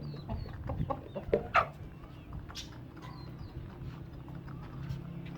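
Hens clucking and small birds chirping, with two sharp knocks about a second and a half in.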